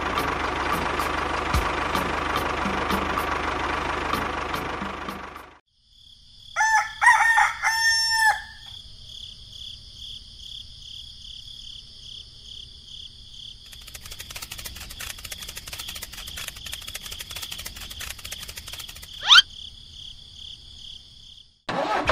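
Steady tractor engine sound that fades out about five seconds in, then a rooster crowing once, followed by a steady high-pitched background tone with rapid clicking and a quick rising whoosh near the end.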